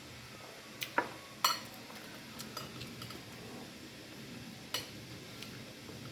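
Metal cutlery clinking against a plate during a meal: a few sharp clinks, the loudest close together about a second in, one more later, and light ticks between.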